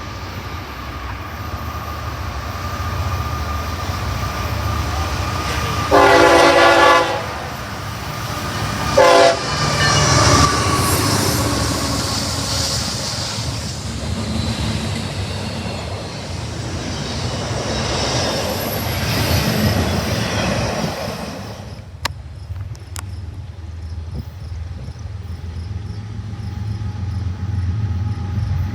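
Train horn sounding one long blast and then a short one, followed by the train running past with steady rumbling wheel noise that drops away sharply about 22 seconds in.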